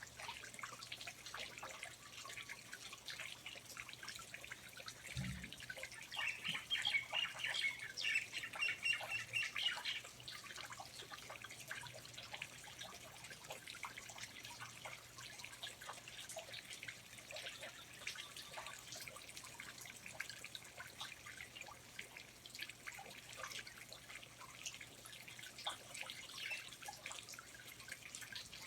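Rainforest ambience of water dripping steadily, many small separate drops. From about six to ten seconds in a bird sings a quick run of high repeated notes, the loudest sound here.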